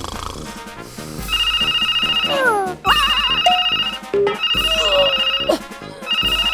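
Background music with a repeating electronic ringing tone, like a telephone bell, that starts about a second in and sounds in rings about a second and a half long. Cartoon sound effects with falling and wobbling pitch glides come between the rings.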